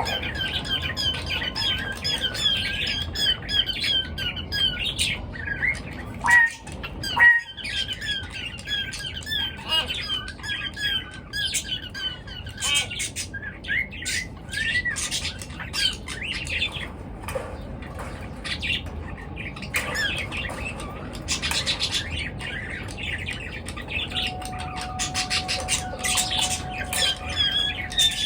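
A group of pet birds chattering with many overlapping chirps and squawks. Two sharp knocks come about six and seven seconds in.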